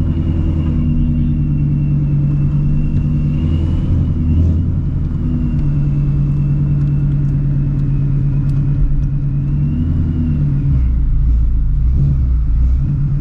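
Supercharged Shelby GT350's 5.2-litre flat-plane-crank V8 running at low revs while the car is manoeuvred into a parking spot, a steady deep rumble whose pitch shifts slightly now and then. A faint high, steady whine sits above it.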